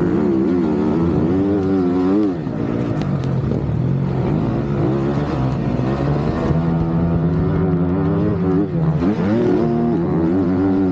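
Motocross bike engines revving hard, their pitch rising and falling again and again, with a deeper dip and climb about two seconds in and again near the end.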